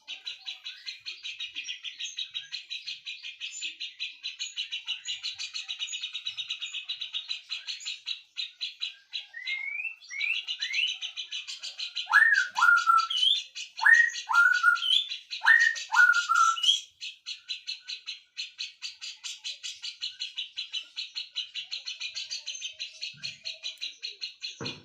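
Songbirds singing: a continuous fast, even chattering trill, with a run of loud rising whistled notes, several in pairs, from about a third of the way in to about two-thirds through.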